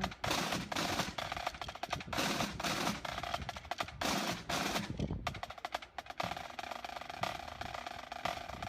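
Drums playing rapid, irregular sharp taps and rolls, like snare drums.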